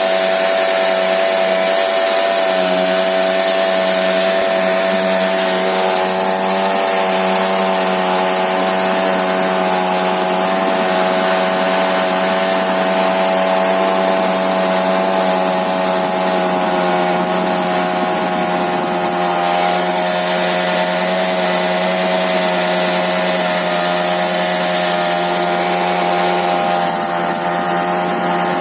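Small scooter engine running at a steady speed, driving a crop sprayer pump.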